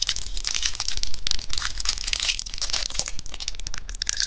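Crinkly plastic candy packaging being handled and crumpled, a dense run of sharp crackles.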